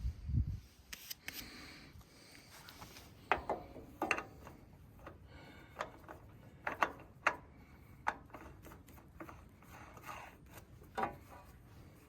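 Scattered clicks, scrapes and rubbing as a new oil filter is handled and spun on by hand, some short knocks ringing briefly.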